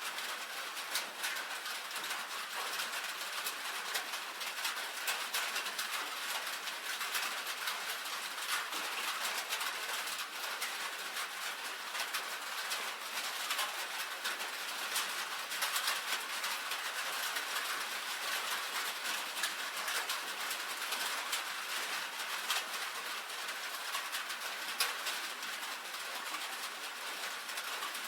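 Steady rain pattering on a tin roof: a dense, even stream of small sharp drop ticks on the metal.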